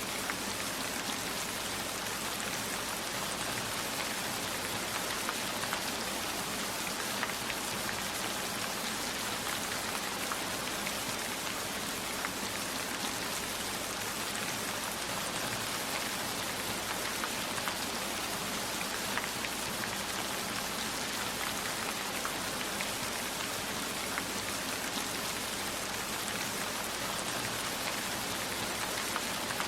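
Steady rain falling, an even hiss sprinkled with many small, sharp drop hits.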